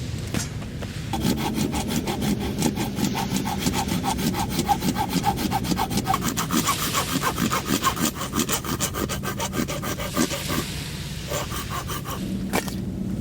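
Hand saw cutting firewood with quick, even back-and-forth strokes. It starts about a second in and stops a couple of seconds before the end.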